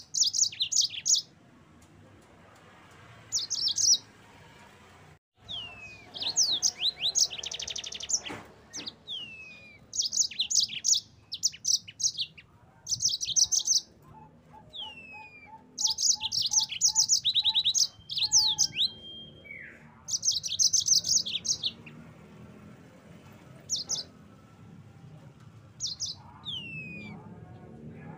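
Yellow-fronted canary (Mozambique canary) singing: repeated bursts of fast, high trills broken by short pauses, with a few falling whistled notes. In the middle a lower note is repeated evenly, about three times a second, for a few seconds.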